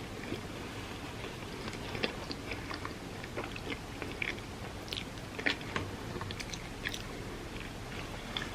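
Close-miked eating sounds: a person chewing and biting, with irregular crisp crunches and clicks.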